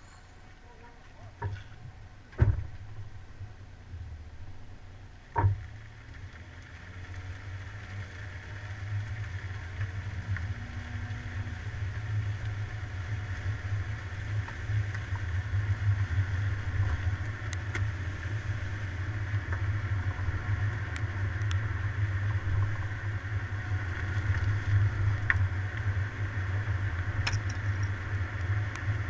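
Car driving: engine and road noise build up after the first few seconds and then hold steady. Two sharp thumps come early, before the car gets going.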